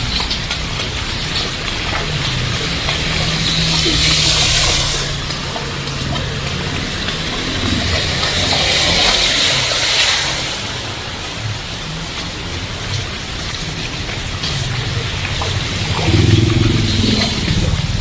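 Heavy rain falling steadily on a street, with two louder hissing swells a few seconds apart.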